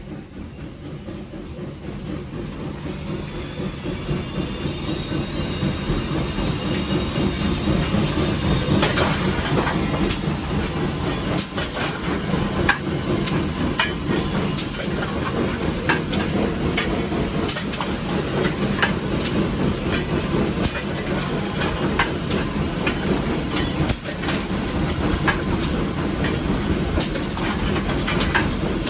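Nevada Northern No. 81 steam locomotive running, heard from its cab: a steady rumble with steam hiss that grows louder over the first several seconds, then holds. Sharp clicks, typical of the wheels crossing rail joints, recur about every second and a half.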